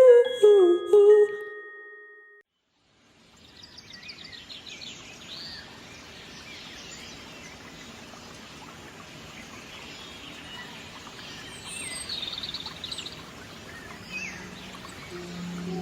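A chiming, bell-like melody fades out, then after a brief silence small birds chirp repeatedly over a steady outdoor background hiss. Soft, low sustained musical tones come in near the end.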